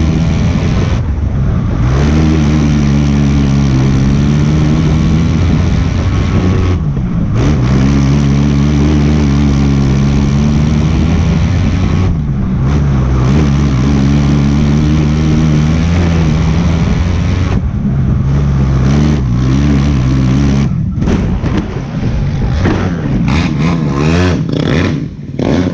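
Race car engine run hard through laps, with a brief lift off the throttle about every five to six seconds, the pitch falling then climbing again. Near the end it turns choppy and uneven as the car slows.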